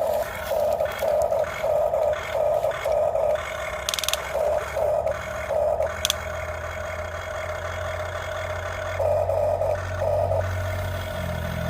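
Remote-control toy construction vehicles running, their small motors whirring with rattling and scraping. A mid-pitched sound pulses evenly about twice a second, and a low hum grows stronger in the second half.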